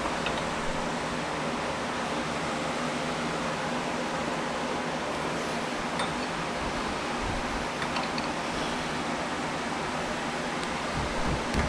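Steady, even fan-like background noise with a few faint clicks.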